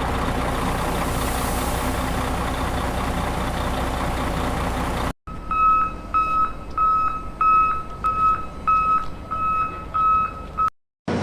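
A heavy vehicle's engine running steadily for about five seconds and cutting off abruptly, then a reversing alarm beeping in a steady rhythm, a little under two beeps a second, until it cuts off near the end.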